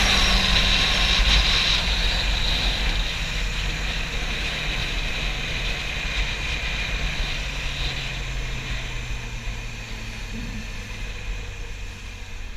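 Yamaha YZF-R6's inline-four engine running as the bike slows, its note dropping steadily. Wind noise on the microphone dies away as the speed falls.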